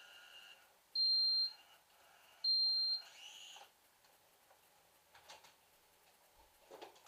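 Two short, high electronic beeps about a second and a half apart, followed by a brief rising tone and a few faint clicks.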